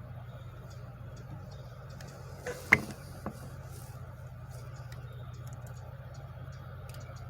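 Steady low hum of shop machinery, broken about a third of the way in by one sharp, loud bang with a ringing tail, flanked by two smaller knocks.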